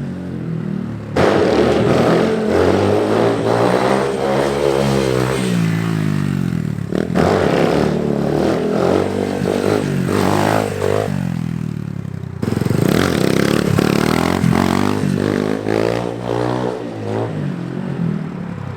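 SSR 150 dirt bike's four-stroke single-cylinder engine revving hard and easing off in second gear during wheelie attempts, its pitch climbing and falling in about three long swells.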